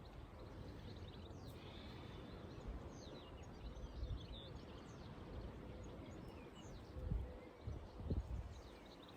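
Small birds chirping now and then over a steady outdoor background noise, with an irregular low rumble that swells a few times near the end.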